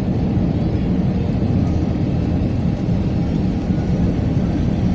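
Steady, loud rumble of an Airbus A321-211's CFM56 engines and the airflow, heard from inside the passenger cabin.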